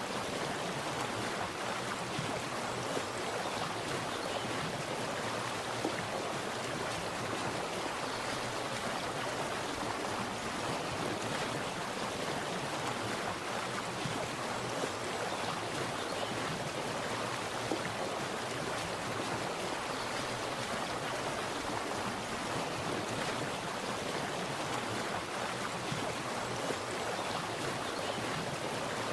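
Water splashing and running steadily, an even unbroken rush with no other sounds standing out.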